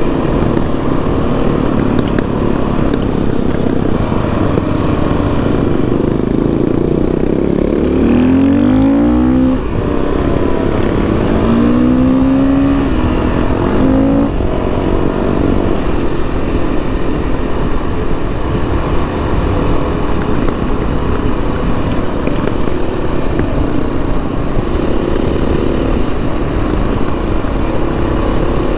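Motorcycle engine running under way, rising in pitch as it accelerates about eight seconds in and again a few seconds later, then holding a steady cruise.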